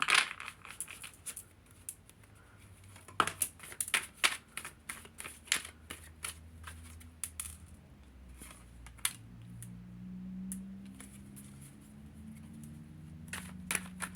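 Tarot cards being handled and shuffled by hand: a run of irregular crisp snaps and slaps of card stock, a few a second.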